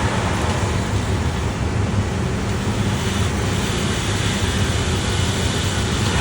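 Steady rushing hiss of steam equipment in a boiler plant, with a continuous low rumble underneath and no breaks.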